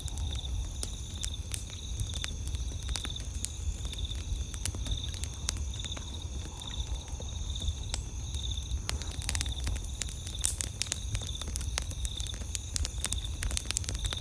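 Campfire crackling, with sharp pops and snaps scattered irregularly throughout. Underneath, night insects keep up a steady high trill, one of them chirping about twice a second.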